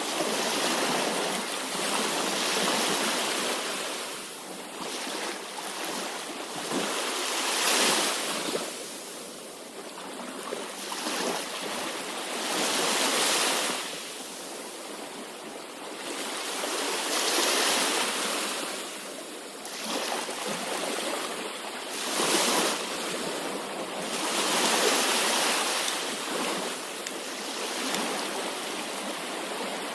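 Ocean waves breaking and washing in, rising and falling every few seconds.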